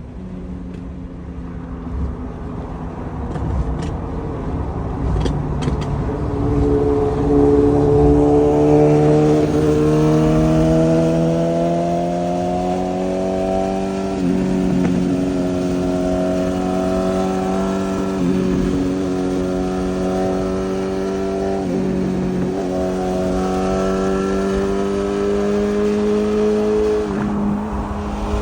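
BMW S1000RR inline-four engine through a titanium full exhaust, pulling harder and louder over the first several seconds, then running with a slowly rising note. The note dips briefly four times, about every four seconds.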